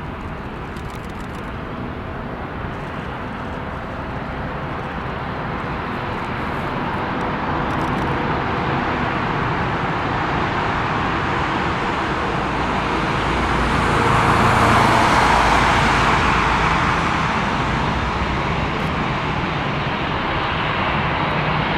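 Jet airliner taking off: a broad engine roar that builds steadily, is loudest about two-thirds of the way through, then eases slightly.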